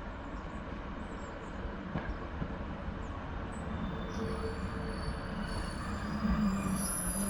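Class 156 diesel multiple unit drawing into a station platform, its running rumble slowly growing louder, with high-pitched brake and wheel squeal setting in about halfway through as it slows to stop.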